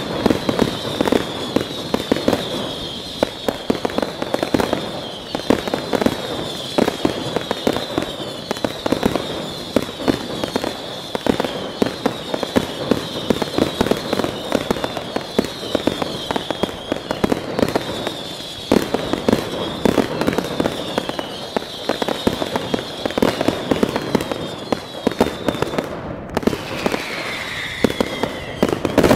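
A fireworks display firing nonstop: a rapid, dense string of bangs and cracks, with a shrill whistle that glides down in pitch over and over. Near the end a lower whistle falls in pitch, and a louder bang comes right at the close.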